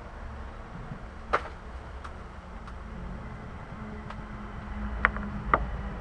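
Hand work on an engine bay: three sharp metallic clinks, one about a second in and two close together near the end, with a few fainter ticks over a low steady rumble.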